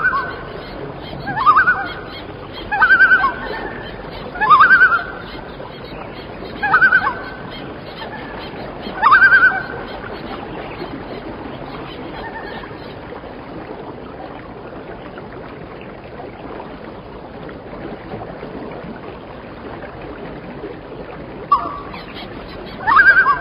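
A large bird calling: short rising honk-like calls repeated every second and a half or so, then a pause of about ten seconds before two more calls near the end, over a steady background hiss.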